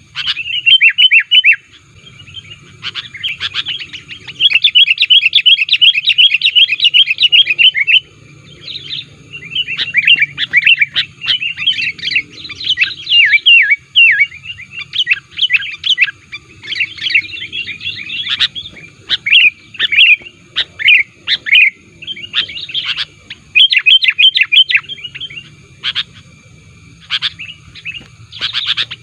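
Sooty-headed bulbul (kutilang) singing a lure song: long runs of rapid, chattering whistled notes in bursts of a few seconds with short breaks, the active, aggressive song of a male pressing rivals.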